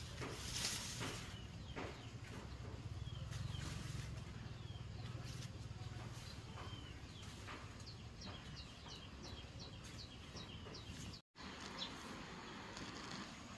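Birds chirping and calling, with a quick run of about nine high notes in the middle, over a steady low hum. A brief rustling noise sounds near the start, and the sound drops out for an instant near the end.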